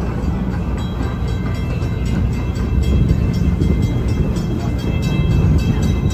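Steady low rumble and rattle of a theme-park passenger train running on its track, heard from aboard, with music playing over it.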